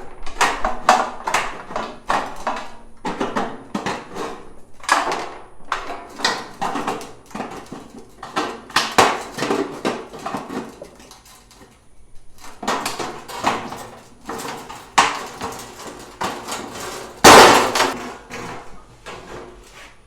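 Hammering and knocking on wood during carpentry, in irregular runs of strikes with short pauses, and one louder clatter about three-quarters of the way through.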